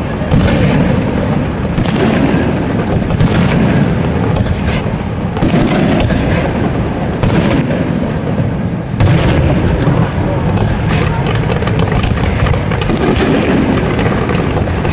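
Fireworks display: aerial shells bursting in sharp bangs every second or two over a continuous low rumble of explosions.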